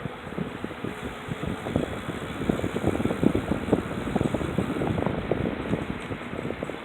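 E-trike rolling over a rough surface: irregular rattling and crunching from the wheels and frame over a steady rushing noise, getting busier about a second and a half in.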